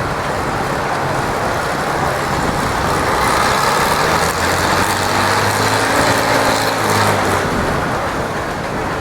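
Farm tractor engine running hard under load while dragging the weight sled, growing louder a few seconds in and easing off near the end.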